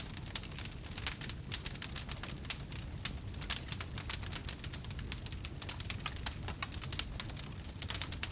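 Wood bonfire burning and crackling: a dense, irregular stream of sharp pops and snaps over a steady low rumble.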